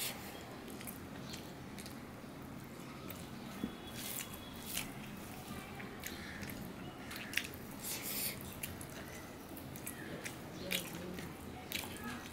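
Close-up chewing of soft rice mixed with water lily stem curry: faint, irregular wet smacks and clicks of the mouth, with fingers squishing the rice on a steel plate.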